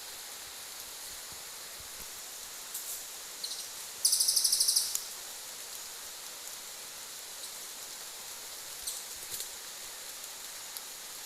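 Tropical forest ambience: a steady high insect drone with a few short bird chirps. About four seconds in comes a loud, rapid, high-pitched trill lasting about a second.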